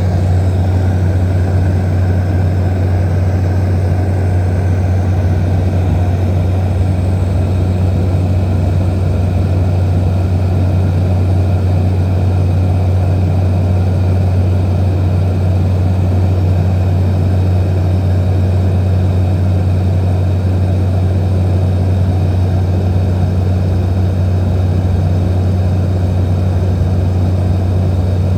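Small propeller aircraft's engine droning loudly and steadily at a constant pitch.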